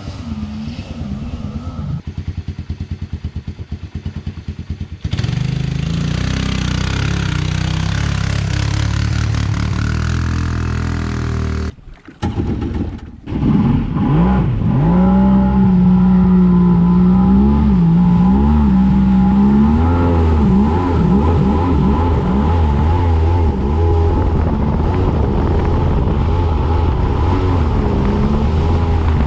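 Yamaha WaveVenture 1100 three-cylinder two-stroke watercraft engine running, its pitch rising and falling with the throttle. The first half is broken by several abrupt cuts and a brief dropout about twelve seconds in, then a steady engine note for the rest.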